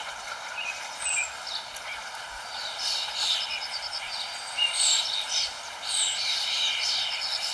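Several songbirds chirping and trilling over a steady background hiss, with short quick notes, rapid trills and down-slurred whistles; the calls grow busier about halfway through.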